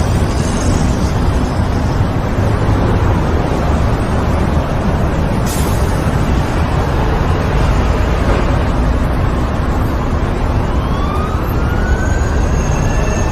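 Steady heavy rumble of road traffic, with a brief click about halfway. Near the end a siren's tone rises and then holds.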